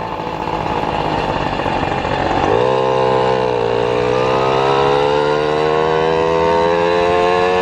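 Vehicle motor accelerating: its hum climbs sharply in pitch about two and a half seconds in, drops back about a second later, then climbs slowly and steadily.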